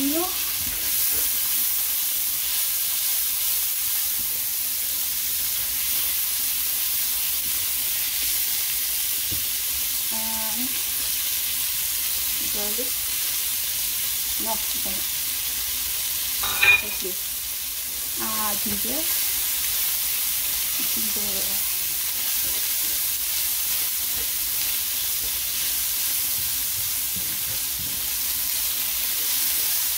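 Food sizzling and frying in a pan, a steady hiss. There is one sharp clink about seventeen seconds in.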